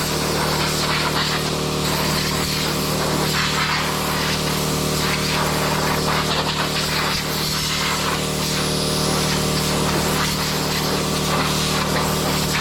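Steady rush of blown air over a constant motor hum: a blower being used to blow mud and water off an RC car.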